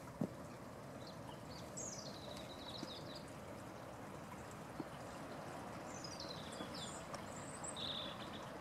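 Small birds calling: short, high, falling chirps in quick runs about two seconds in and again near the end, over a steady outdoor background hiss. A single sharp click sounds just after the start.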